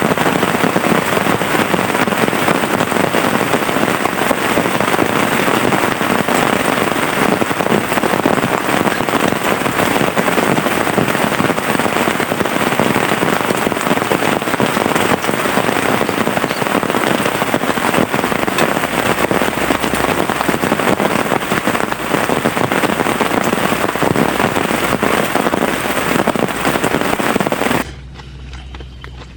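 Heavy rain coming down hard, a dense, even patter of countless drops. Near the end it cuts off suddenly to a much quieter low sound.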